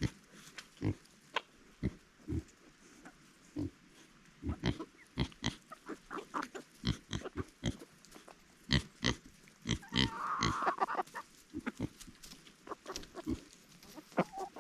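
Kunekune pigs grunting, short grunts coming irregularly and often in quick runs, with a brief higher-pitched sound about ten seconds in.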